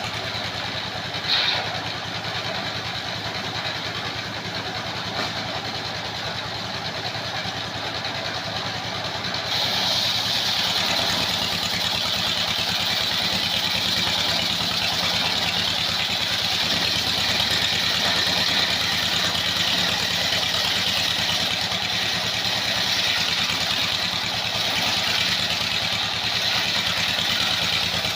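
Engine-driven sawmill circular saw running steadily, with a short sharp sound about a second in. About ten seconds in, a brighter, hissing sound sets in and stays.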